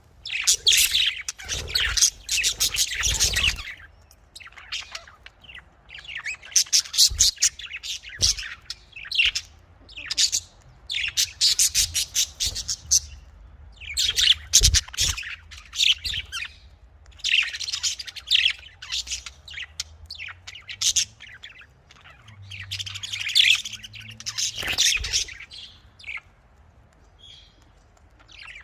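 Budgerigar chatter: rapid high chirps and warbles coming in bouts of a second or two with short pauses, thinning out near the end. A few brief low thumps come in between.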